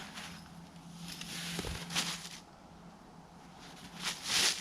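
Rustling and swishing of a hammock and its straps being pulled tight, with a soft thud about a third of the way in and a louder swish near the end.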